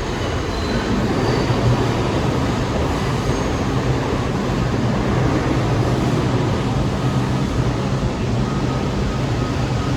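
New York City subway train running through the station, a steady rumble with a low hum.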